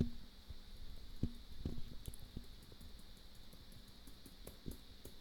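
Computer keys being pressed to start up: a sharp click at the start, a few soft knocks, then a run of light quick taps at about four or five a second, as a key is tapped repeatedly to call up the one-time boot menu. A faint steady high whine runs underneath.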